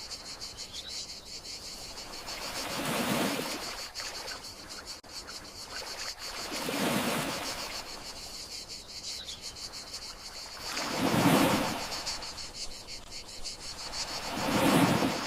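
Gentle sea waves washing onto the shore, one soft swell about every four seconds, over a steady high trill of crickets.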